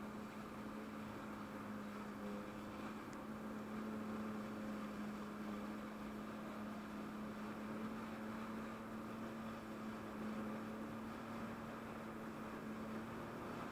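Jet ski engine running at a steady speed, a constant droning note over a hiss, heard muffled and fairly faint, with the pitch shifting slightly near the end.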